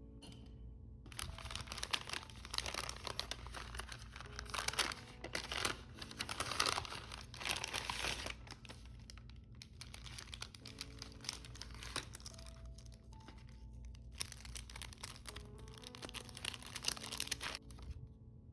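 Packaging crinkling and rustling as it is handled and unwrapped by hand, heaviest in the first half and lighter later, over soft background music.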